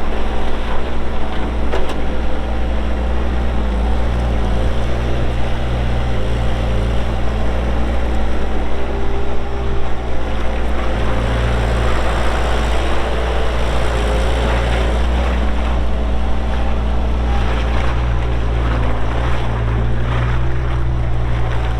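Kubota diesel engine of a Thomas T135 skid steer running under work, its low note growing heavier and lighter several times as the loader is operated, with a couple of knocks about two seconds in.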